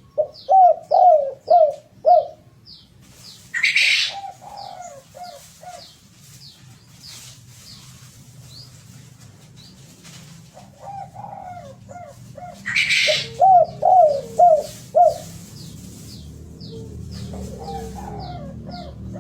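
Derkuku dove cooing in phrases of four or five rhythmic coos, loudest at the start and again about two-thirds through, with softer phrases between. A smaller bird keeps up quick high chirps, about two a second, and twice there is a short rustling burst.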